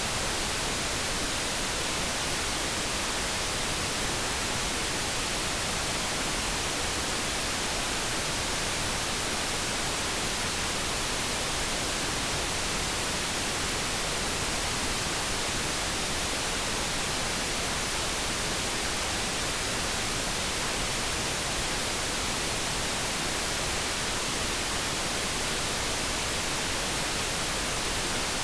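Steady synthesized light brown noise: an even, unchanging hiss with no tones or breaks.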